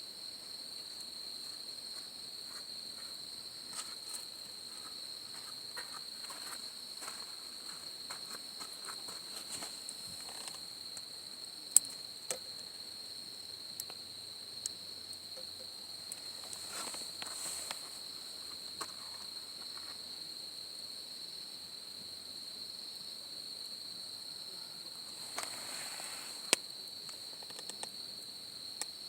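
Steady, unbroken high-pitched trilling of an insect chorus, with scattered sharp pops and crackles from a wood campfire, two of them much louder than the rest.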